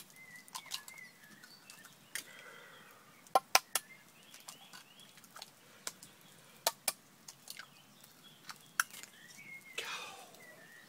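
Scattered sharp clicks and taps, some in quick pairs, with faint short bird calls between them.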